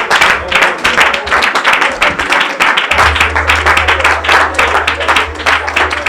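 A congregation clapping fast and unevenly, with voices mixed in, during loud group prayer. Underneath is a low steady bass note that thins out near the start and comes back about three seconds in.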